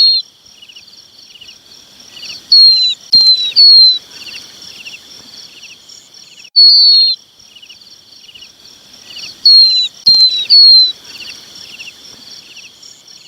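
Lapwing chick calls: loud, short, downward-slurred whistles, singly and in quick runs of two or three, repeating in a steady loop over a fast, even chirping. The sound cuts off abruptly at the end.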